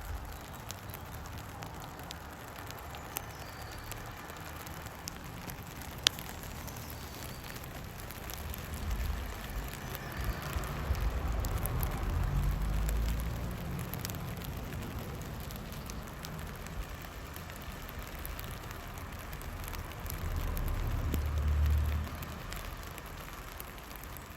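Rain falling on a plastic sheet: a steady patter of many small drop ticks. A low rumble swells twice, about ten seconds in and again a little after twenty seconds, and there is one sharp tick about six seconds in.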